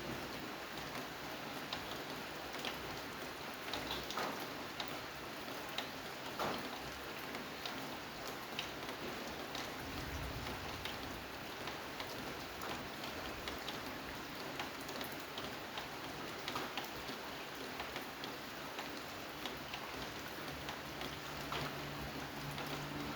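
Steady rain falling on a surface, with many separate drops ticking through it. A low hum starts to build near the end.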